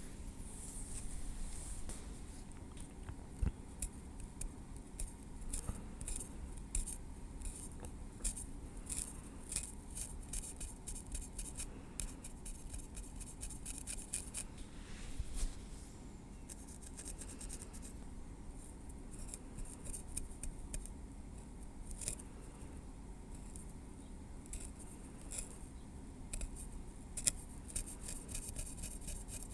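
Metal tweezers working through hair at the scalp: many small, sharp, irregular ticks and light scrapes, thickest in the middle of the stretch.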